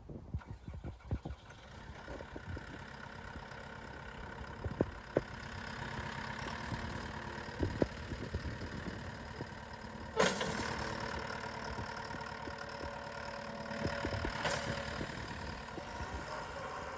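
Diesel engine of a JCB 3TS-8T Teleskid skid steer loader running steadily at idle, after a few scattered knocks at the start, with a brief loud clank about ten seconds in.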